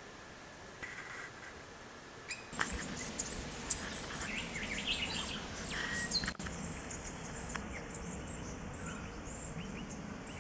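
Small birds chirping and calling over a faint hiss: a faint steady high tone at first, then from about two and a half seconds in, many short, high chirps and twitters.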